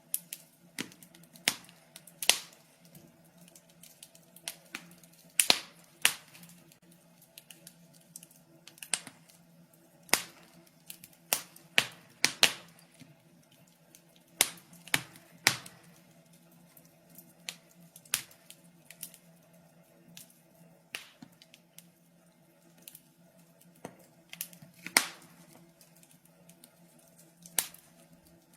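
Wood fire crackling in a fireplace: irregular sharp pops and snaps, some loud, over a faint steady hum.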